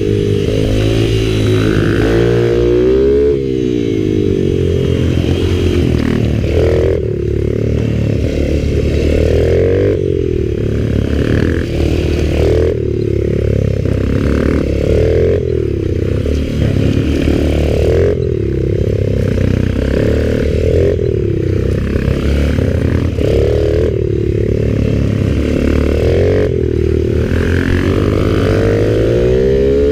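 Mini bike (pit bike) engines revving up and dropping off over and over as the bikes accelerate out of corners and roll off into the next, lapping a track.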